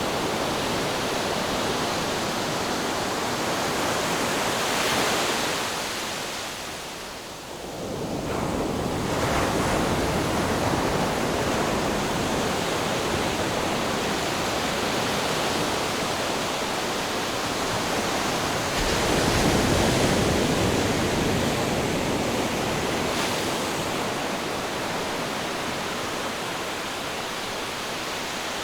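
Ocean waves washing on the shore in a steady rush of surf, swelling about five seconds in, easing briefly around seven seconds, and swelling again at about twenty seconds.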